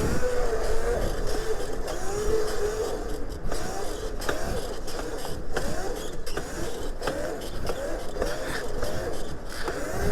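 Razor MX500 electric pit bike, boosted to 76 volts, under way: its motor whine keeps rising and falling in pitch with the throttle. Wind rumbles on the microphone, with scattered clicks.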